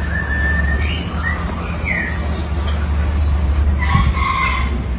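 Birds chirping and calling a few times over a steady low rumble.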